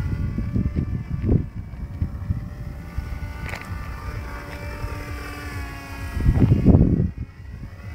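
Radio-controlled model airplane's engine running with a steady drone. Wind buffets the microphone, with the heaviest gust a little after six seconds in.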